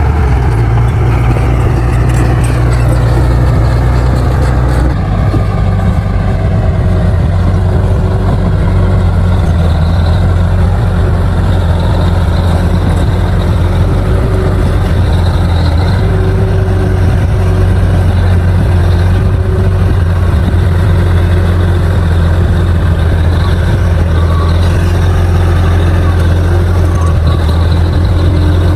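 Bulldozer's diesel engine running loudly. Its pitch falls and settles lower about five seconds in, then holds steady.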